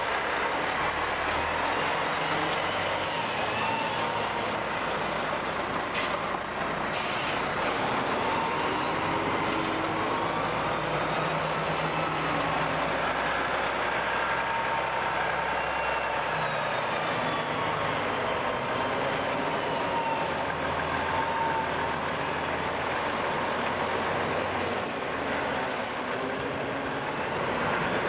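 Heavy diesel engines of trucks and site machinery running steadily, their pitch shifting up and down as they work, with a faint whine wandering above.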